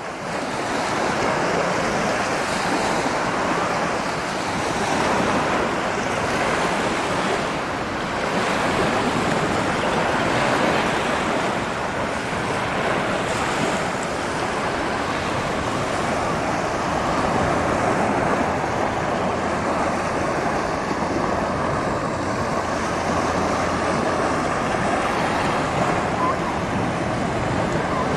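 Ocean surf: waves breaking and washing in a steady rush, swelling and easing slightly every few seconds.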